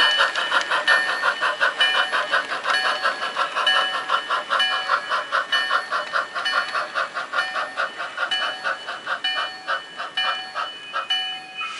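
Model steam locomotive's sound-decoder bell ringing in a steady run of about three strokes a second as the passenger train comes into the station, stopping near the end.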